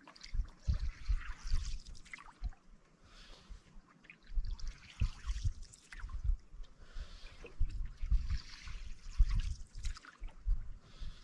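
Canoe paddling: water trickling and dripping off the paddle in repeated swells, about one every second or two, with frequent low thuds underneath.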